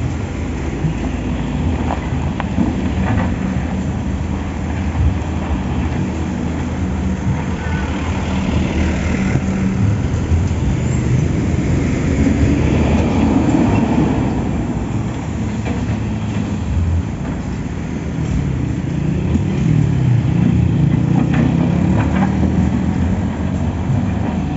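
Excavator's diesel engine running steadily with a low rumble, swelling louder around the middle and again near the end as it works under load, with a few faint knocks.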